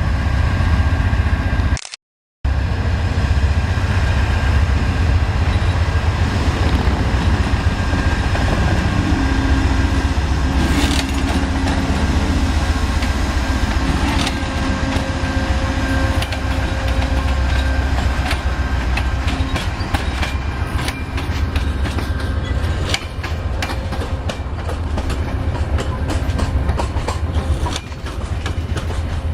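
A train passing close by: a heavy, steady diesel rumble, then wheels clacking over rail joints in a quickening run of sharp clicks through the second half.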